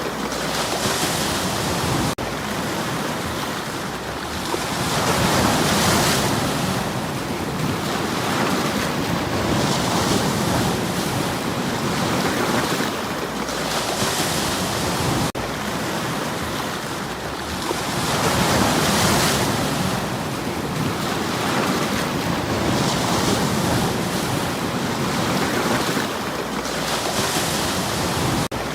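Sea waves breaking on a stony shore, surging in and washing back every few seconds with a hiss at each swell.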